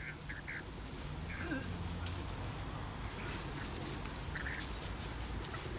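A few short bird calls: brief chirps in the first two seconds and another about four and a half seconds in, over a low steady outdoor rumble.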